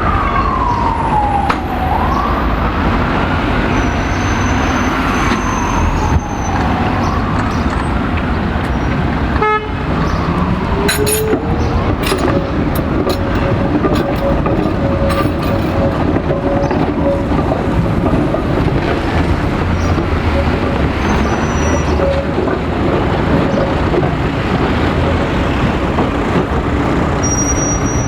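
Emergency vehicle siren wailing in slow falling and rising sweeps over steady street traffic, dying away about nine seconds in. After it, a steady tone carries on over the traffic for some ten seconds, with a few clicks.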